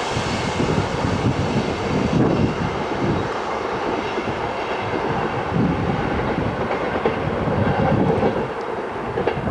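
Adtranz Bombardier train passing at speed, its wheels clattering over the rail joints with a steady rumble, starting to fade near the end.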